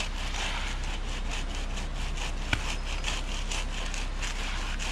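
Rhythmic scraping, about three or four strokes a second, of a screed being sawed back and forth across wet concrete to level it, over a steady low engine hum. A single sharp click comes about halfway through.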